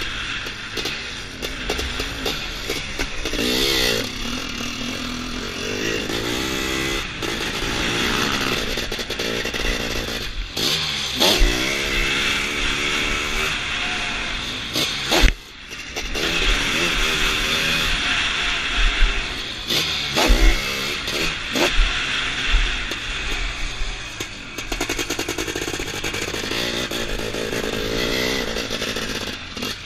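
Sidecarcross outfit's 700cc Zabel engine running hard at racing pace, its pitch rising and falling repeatedly with throttle and gear changes. Level dips briefly about halfway through, and sharp knocks come from the outfit hitting bumps on the track.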